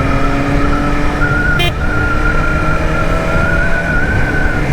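BMW S1000RR inline-four engine running at steady, slowly rising revs under way, with heavy wind rush. A short click about a second and a half in.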